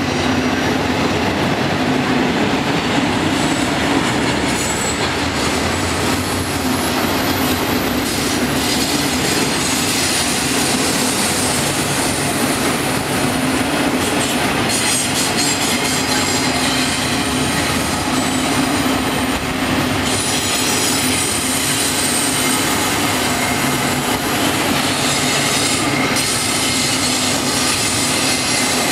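Double-stack intermodal freight train's well cars rolling past steadily: a continuous rumble and clatter of steel wheels on rail, with a high-pitched wheel squeal coming and going.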